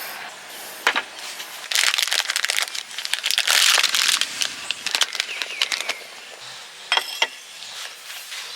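Irregular crinkling and rustling of something being handled, loudest a few seconds in, with sharp clicks about a second in and again near seven seconds.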